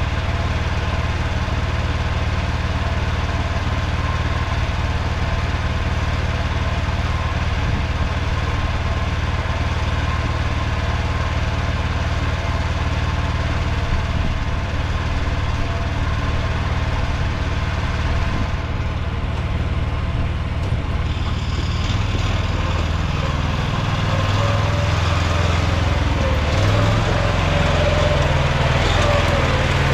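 Mini tractor engine running steadily. About two-thirds of the way in its sound turns rougher and a little louder.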